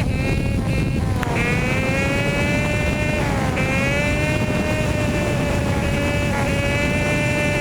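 Hawk 250 dual-sport motorcycle's 250 cc single-cylinder engine running at steady riding revs. Its pitch dips and climbs back three times as the throttle eases and reopens, over a low rushing noise.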